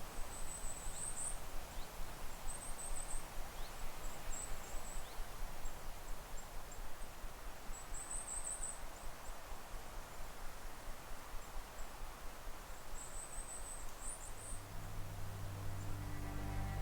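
Goldcrests calling: short groups of very high, thin notes every few seconds, over a steady forest hiss. Music fades in near the end.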